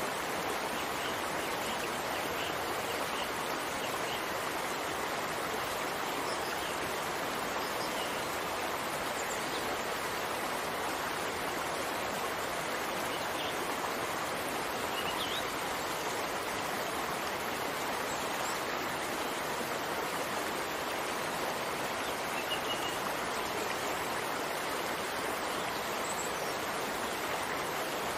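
Steady, even rain hiss with no change in level, and a few faint, scattered high ticks.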